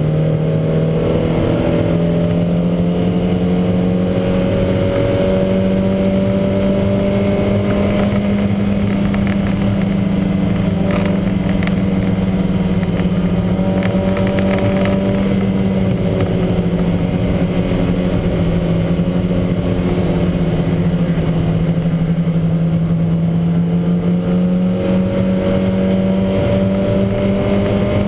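Lancia Montecarlo race car's engine running hard under load, its pitch climbing slowly, easing off through the middle and climbing again near the end; the car was running with a heavy misfire.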